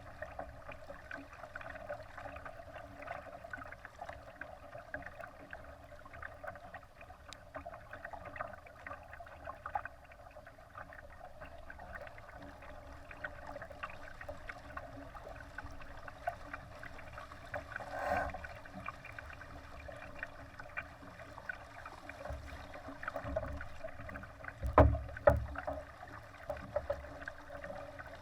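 Water splashing and gurgling against a Laser sailing dinghy's hull as it moves, with a brief louder splash partway through and two sharp knocks near the end.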